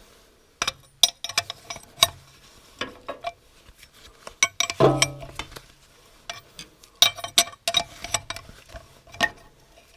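Irregular metallic clicks and clinks as a homemade threaded-rod puller is turned bit by bit, drawing a cylinder liner out of the engine block, with a brief low hum about halfway through.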